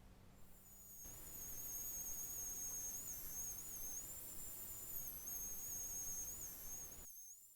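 A high-pitched electronic whine with small wobbles in pitch over a faint hiss. It starts just after the beginning and cuts off near the end.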